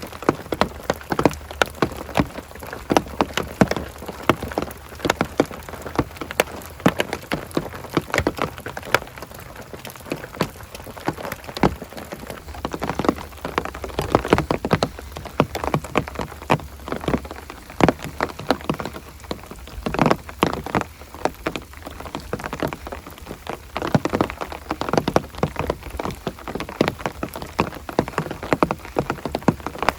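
Heavy rain falling, with many separate large drops striking a surface close by as irregular sharp clicks over a steady hiss.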